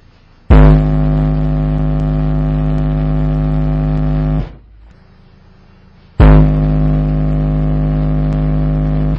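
Soundstream SPL15.1 15-inch subwoofer in a ported enclosure playing a 46 Hz test tone in two loud bursts, one of about four seconds and one of about three. Each burst starts with a sharp hit, then holds steady as a buzzing drone.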